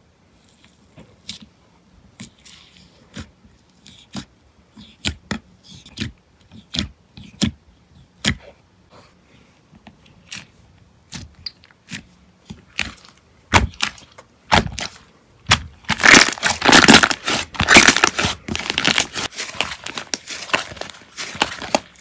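Slime being pressed and worked by hand for ASMR: sharp, separate clicking pops about once or twice a second, turning into a dense, louder crackling crunch about two-thirds of the way through.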